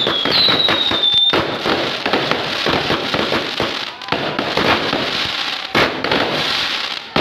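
Aerial fireworks going off in a rapid string. Several short whistles falling in pitch come in the first second or so, then a dense run of crackling bangs and pops, with one sharp bang near six seconds.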